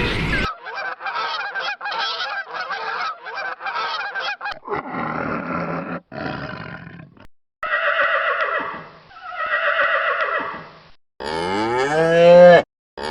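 A string of animal calls: rapid short calls for about four seconds, then a few longer calls, and near the end a cow's loud moo, rising and then falling in pitch.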